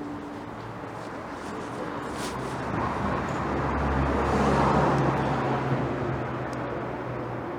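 A motor vehicle passes close by on a street, its engine and tyre noise growing louder to a peak about halfway through and then fading away.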